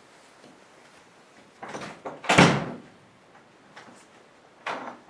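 A door banging shut about two seconds in, the loudest of a few knocks, with lighter knocks just before it and near the end.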